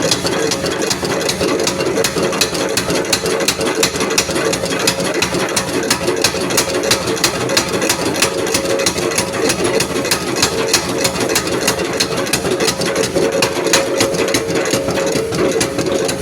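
A machine running steadily, with a constant hum and a fast, even ticking throughout.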